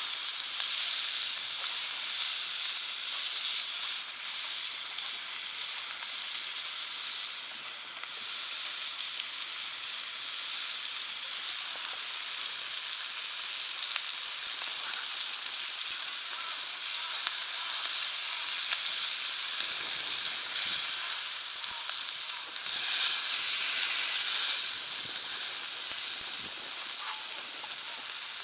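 Meat sizzling on a cast-iron jingisukan grill pan heated by a wood fire: a steady frying sizzle with scattered small pops.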